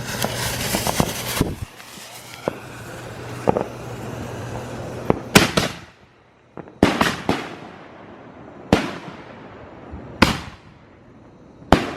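Consumer canister firework shells going off: a brief rushing hiss of fuses and lift at the start, then a string of loud booms a second or two apart, each trailing off in echo.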